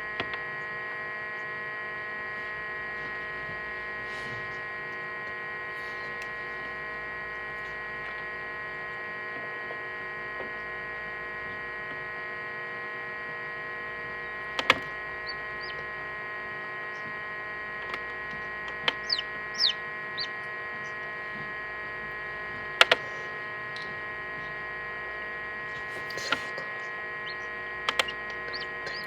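Steady electric hum of an egg incubator running, with a few short high chick peeps in the second half and now and then a sharp click.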